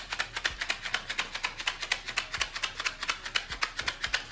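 A small cardboard box of salmiakki candies rattling in quick, even strokes, several a second, the pieces clicking inside the box.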